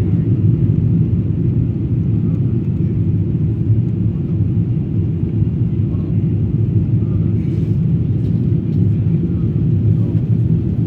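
Steady low rumble of a Boeing 777-300ER's cabin during the climb, its GE90 engines and airflow heard from inside the cabin as an even, unchanging drone.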